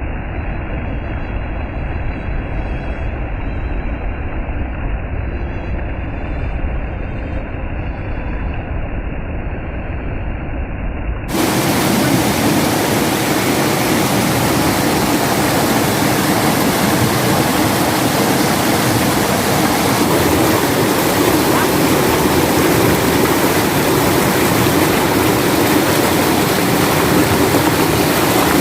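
Clear water flowing and rushing in a steady, even noise, with faint high chirps over it at first. About 11 seconds in it cuts abruptly to a louder, fuller rush of water.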